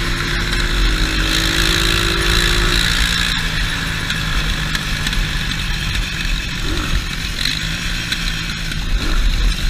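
200cc dirt bike engine running at speed, with heavy wind rushing over the bike-mounted action camera. A faint engine tone rises slightly over the first three seconds, and there is a single sharp click about three and a half seconds in.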